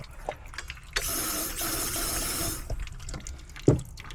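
Burst of compressed nitrogen hissing through a condensate drain line and its P-trap for about a second and a half, with water splashing in the line; the technician doubts it is clearing the trap. A sharp knock near the end.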